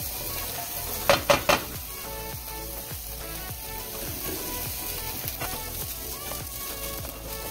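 Chunks of brined jackfruit sizzling steadily in a frying pan as their moisture cooks off, pushed about with a spatula. Three sharp knocks about a second in.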